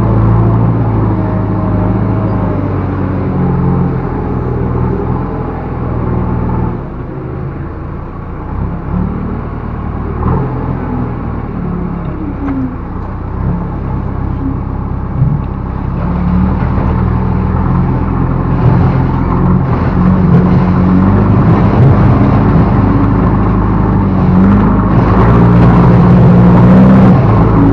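Backhoe loader's diesel engine running under work, its pitch and level shifting: it eases off for several seconds, then comes back up and stays loud through the latter half.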